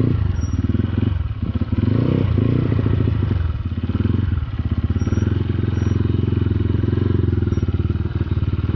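Motorcycle engine running under varying throttle on a rough track. The revs drop briefly about a second and a half in and again around four seconds, then pick up each time.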